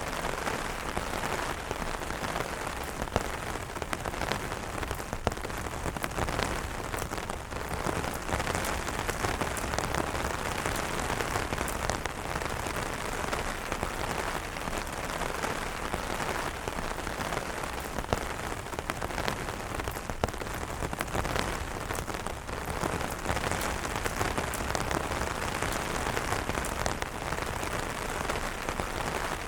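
Steady rain falling on umbrellas, with many separate drops striking sharply over the constant hiss and an occasional louder hit.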